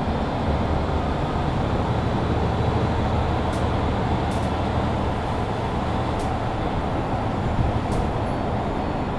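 Mercedes-Benz Citaro C2 Hybrid city bus driving: a steady low engine drone with road noise, and a few light clicks or rattles now and then.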